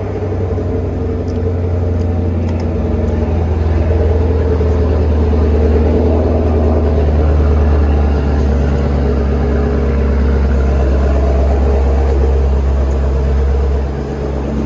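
Chevrolet Camaro SS's 6.2-litre V8 idling on a cold start, just after firing up: a steady, deep, even drone from the engine and exhaust. It dips briefly near the end.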